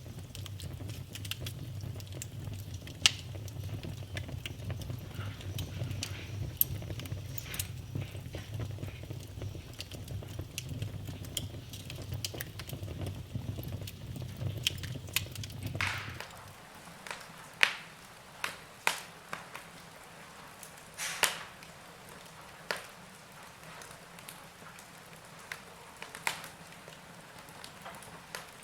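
Wood fire crackling and popping in a fireplace. A low rumble runs under the crackle for the first half, then cuts off suddenly about halfway; after that, fewer but sharper pops stand out.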